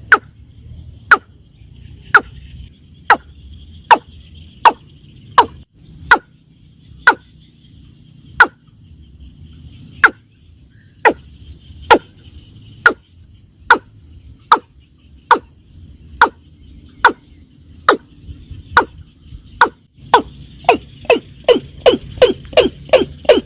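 Watercock calling: a long series of short, sharp notes, each dropping quickly in pitch, about one a second, quickening to about three a second near the end.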